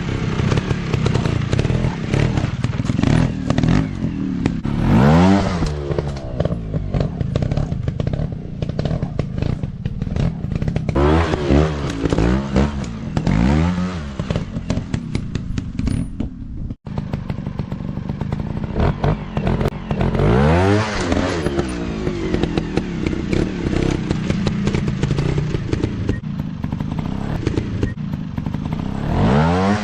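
Dirt bike engine running and revving in repeated bursts, the pitch climbing and falling several times over a steady running note. The sound breaks off for an instant a little past halfway.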